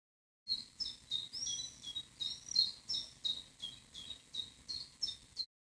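A songbird calling: a quick series of short high chirps, about three a second, mixed with a few longer slurred notes, starting and stopping abruptly.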